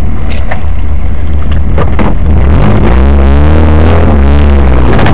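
Car engine revving up and down repeatedly at a standstill, heard from inside the car over a heavy low rumble. A few sharp clicks come in the first two seconds, and the revving starts about halfway through.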